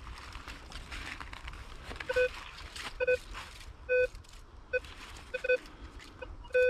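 Minelab Vanquish 440 metal detector giving a series of short, low-pitched beeps, about seven of them from two seconds in, as the search coil is swept back and forth over a buried metal target. Faint rustling of the coil and footsteps over the ground runs underneath.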